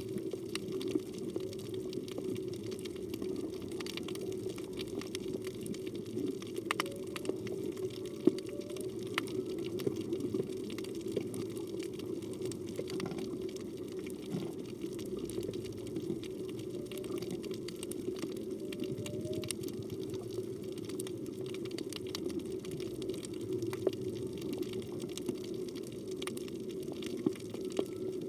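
Underwater ambience on a reef: a steady low rushing noise with scattered sharp clicks, and several faint short calls that bend in pitch, humpback whale song heard through the water.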